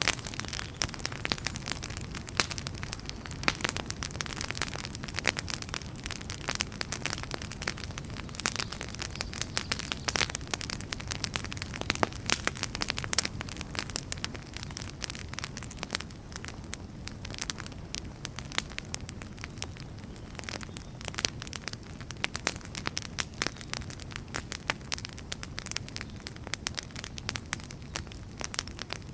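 Wood fire crackling, with many irregular sharp snaps over a low steady rumble of flame.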